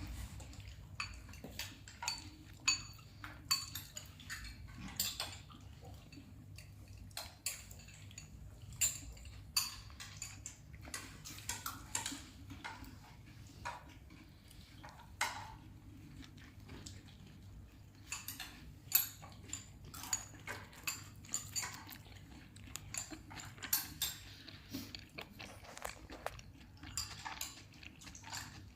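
Metal utensils and dishes clinking and knocking in irregular short strikes, about one or two a second, over a steady low hum.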